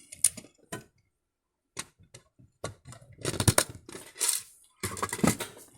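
Hands handling a die-cast model truck: scattered clicks, taps and light rattles of small hard parts, with a short hiss-like rustle about four seconds in.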